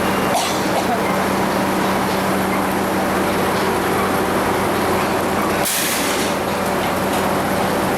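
Sawmill machinery running steadily with a constant hum, with a short hiss a little under six seconds in.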